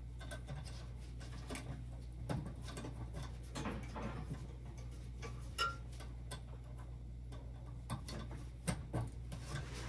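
Scattered small clicks and taps of wires and terminals being handled while a gas boiler's control wiring is reconnected, over a steady low hum.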